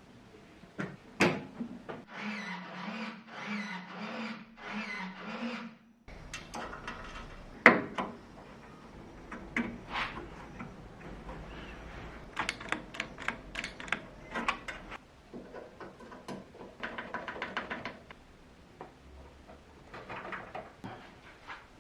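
Small metal parts being handled and fitted: sharp clicks, taps and knocks. From about two to six seconds a small electric tool or motor runs, wavering in pitch and pulsing about once a second.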